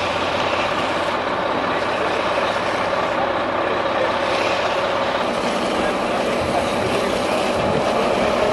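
Heavy truck engine running steadily, a constant drone under dense mechanical noise.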